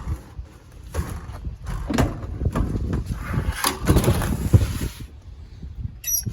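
Clunks, knocks and scraping as a car seat is worked loose and pulled out of a car's interior. The knocks come about once a second, with a longer stretch of scraping and rustling in the middle.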